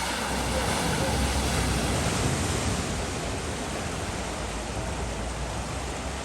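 Steady rushing of floodwater, swelling slightly with a low rumble about one to three seconds in.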